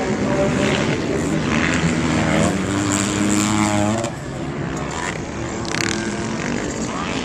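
Motocross dirt bike engines running and revving on the track, a steady drone that is loudest for the first four seconds and then drops back a little.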